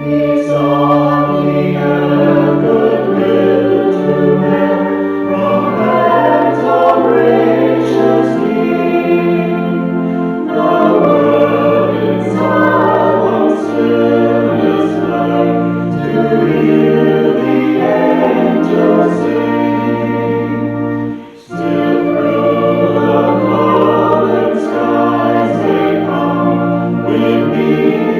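A church choir singing a hymn with instrumental accompaniment in sustained phrases, breaking off briefly about 21 seconds in before going on.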